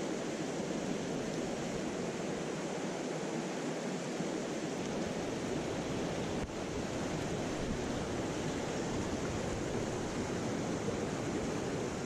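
Steady rush of flowing mountain-stream water. A brief dip about six and a half seconds in, after which the rush carries more low rumble.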